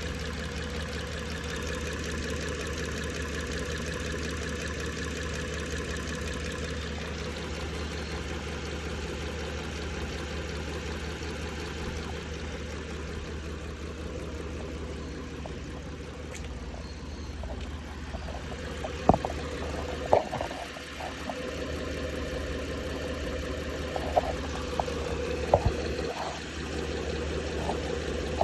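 2016 Ford Explorer engine idling steadily with a tick that showed up after its timing guides and tensioners were replaced. A few sharp, louder knocks come through in the second half.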